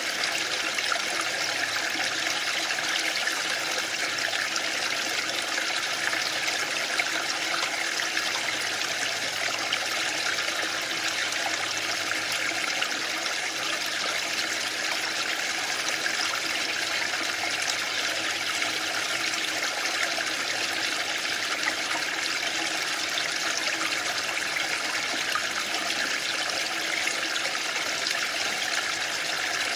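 Waterfall: a steady, unbroken rush of falling water, bright and hissy, with no surges or breaks.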